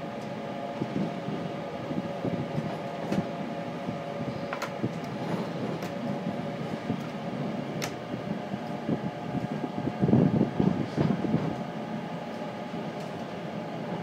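Moving train heard from inside the passenger car: a steady rolling drone with a faint constant hum, a few sharp clicks, and a louder rumbling stretch about ten seconds in.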